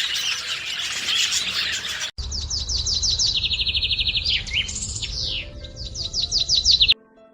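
Birds chirping: a dense chorus of many birds for about two seconds, then a sudden change to a single songbird singing runs of quick downward-sliding chirps and a fast even trill over a low rumble. The birdsong cuts off abruptly near the end, and a few faint musical notes follow.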